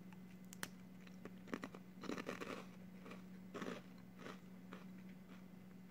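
Crunchy twisted puffed snack (Nongshim Honey Twist) being bitten and chewed: faint crisp crunches in several short clusters.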